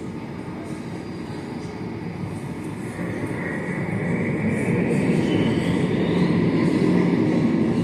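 A vehicle's whine rising in pitch over a steady low rumble, growing louder from about three seconds in.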